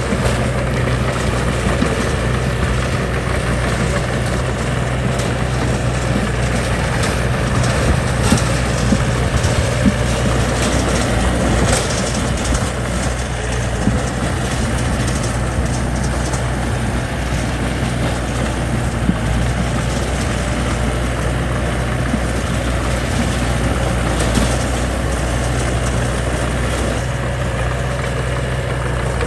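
Heavy diesel engine of earthmoving machinery running steadily, with scattered knocks and clanks.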